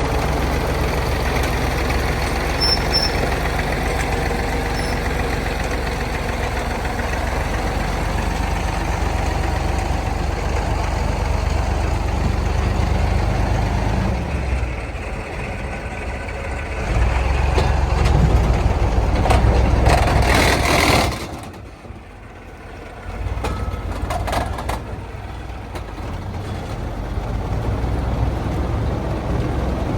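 Heavy truck engine running under load, getting louder about two-thirds of the way through. A short burst of hiss follows, and the engine sound falls away for about two seconds before it picks up again.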